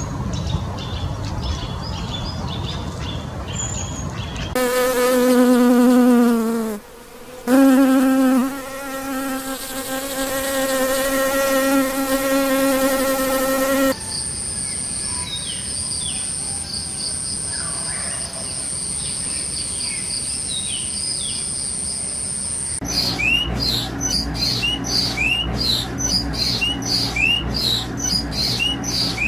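A run of short nature recordings. First a flying insect buzzes with a steady hum that dips and breaks off briefly, then a high continuous insect whine with scattered bird chirps over it, then a quick regular series of short rising chirps.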